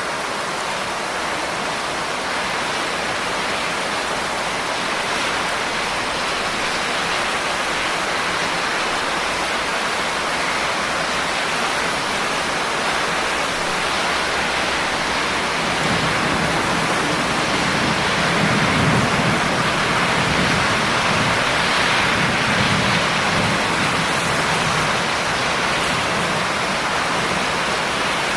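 Steady rain falling, an even hiss of drops. About halfway through, a low rumble swells in, peaks, and fades over several seconds.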